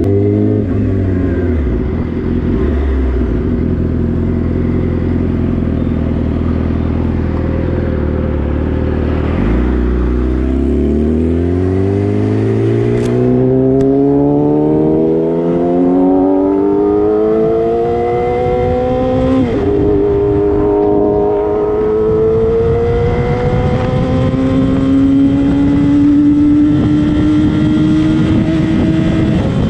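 A sport motorcycle's engine running steadily, then accelerating with its pitch climbing for about ten seconds. The pitch drops sharply at an upshift and then climbs slowly again in the next gear.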